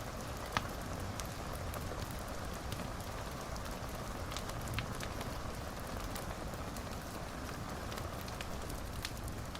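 Wood fire crackling in a fireplace: a steady hiss with scattered sharp pops and snaps, the loudest pop about half a second in.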